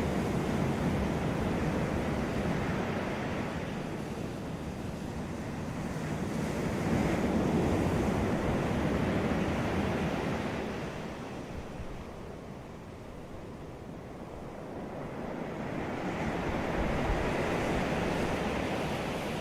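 Ocean waves breaking on a beach, the surf rising and falling in slow swells about every nine or ten seconds, with some wind on the microphone.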